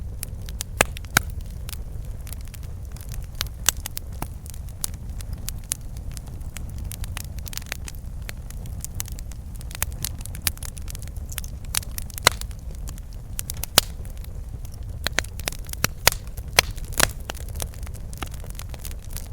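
Campfire burning, with irregular sharp crackles and pops from the burning wood over a steady low rumble of the flames.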